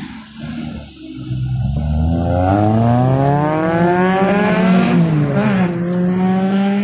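Honda car engine revving hard as the car accelerates away: the note climbs steadily, falls back a little about five seconds in, then holds steady.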